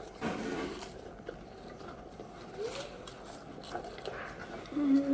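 Crunchy puffed snacks being chewed fast, with soft crackling and clicks. Near the end a short hummed voice falls in pitch.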